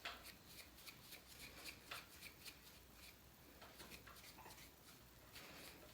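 Faint, irregular scratchy rustling of long, tangled, serum-wet hair being handled and worked through.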